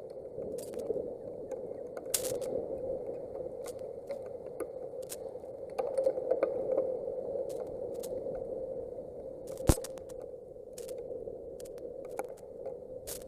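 Thunderstorm wind and heavy rain on an outdoor nest camera's microphone: a steady rushing noise with scattered sharp ticks, and one louder knock nearly ten seconds in.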